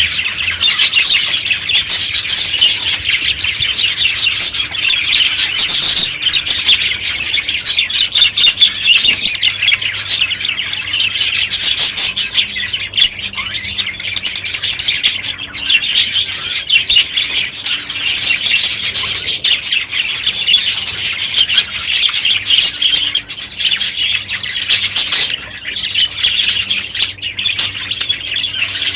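A flock of budgerigars chattering and chirping nonstop, many birds calling over one another.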